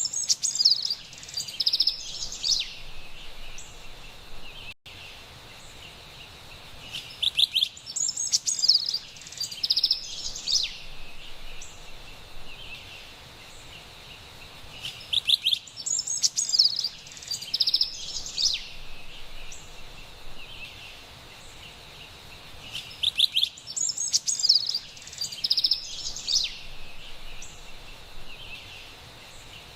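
Carolina wren singing: four bouts of bright, rapid chirping phrases, each two to three seconds long, about every eight seconds, over a steady faint hiss of forest ambience.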